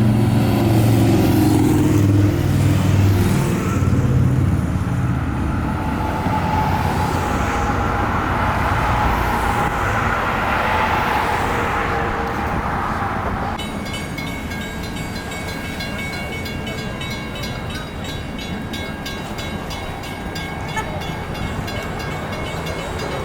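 A large engine running close by, with a deep, pitched drone that is loudest in the first few seconds and fades over the next several. A steadier, quieter background noise follows.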